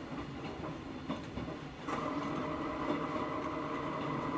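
On-board running sound of a Hakone Tozan Railway Moha 1 electric car with nose-suspended traction motors. Scattered clicks of the wheels on the track come first, and about halfway through a steady motor and gear whine comes in and holds.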